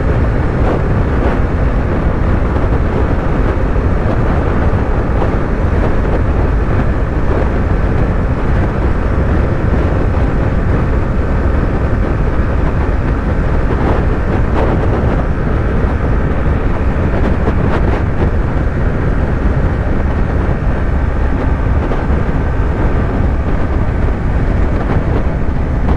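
Yamaha YZF-R3's 321 cc parallel-twin engine running at a steady highway cruise, under heavy wind rush on the microphone. Loud and even, with no shifts or revs.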